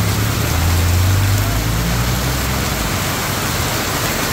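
Heavy tropical downpour hammering on a paved road, a loud, steady hiss. Under it, a vehicle's low engine rumble fades out about two seconds in.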